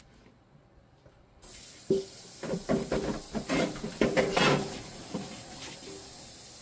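Tap water running into a sink with irregular splashing and clattering, starting about a second and a half in.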